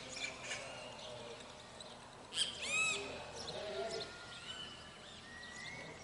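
Several birds singing in a morning chorus. About two and a half seconds in, one bird gives a short burst of quick arched notes, and thin held whistles from others follow.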